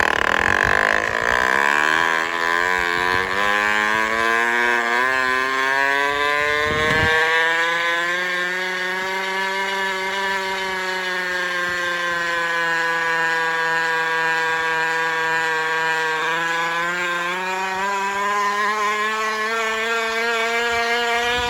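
Plastic water bottle slapped by the spinning wheel of a fat-tire mountain bike, making a loud, buzzing rattle that sounds like a two-stroke motorbike engine. Its pitch rises as the bike gathers speed, holds steady, dips about two-thirds of the way in, then climbs again.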